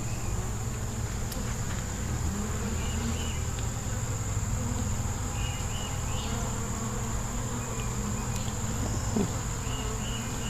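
Honeybee colony in an opened Warré hive humming steadily, a low continuous buzz of many bees. A steady high-pitched insect drone runs behind it, with a few faint chirps.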